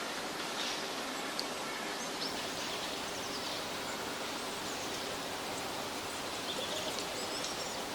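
Forest ambience: a steady, even hiss with a few short, faint bird chirps scattered through it.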